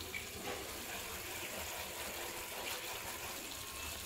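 Chopped onion, green chilli and tomato sizzling steadily in melted butter in a frying pan on medium-high heat, stirred with a wooden spatula.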